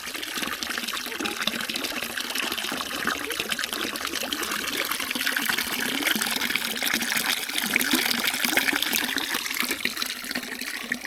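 Running water of a stream, a steady dense rush and splash.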